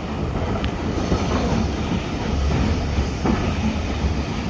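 Heritage steam train heard from inside its wooden carriage while running: a steady rumble of wheels on rail, with faint clicks from the track.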